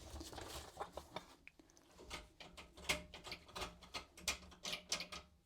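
Faint, irregular small clicks and light knocks of hand tools and metal parts being handled while working loose the shifter boot's worn bolts.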